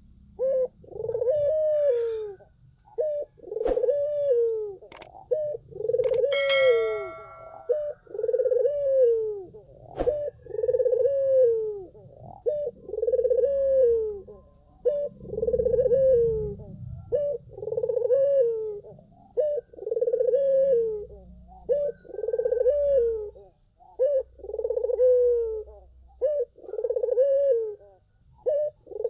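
Puter dove (Barbary/ringneck dove) cooing over and over, a short note then a longer arched coo, roughly once every second and a half. A brief high chirp comes about six seconds in, and there are a few sharp clicks early on.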